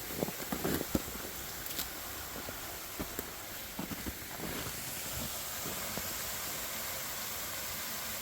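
Footsteps on a snowy trail: soft, scattered steps, mostly in the first second and again around four seconds in, over a steady rushing hiss.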